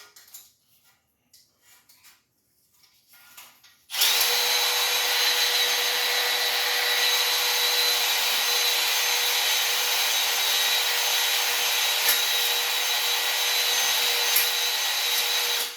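Electric drill spinning a cylinder hone inside a Ford 289 V8's cylinder bore, smoothing the cylinder wall. It starts about four seconds in after some light handling clicks, runs steadily for about twelve seconds, and cuts off suddenly near the end.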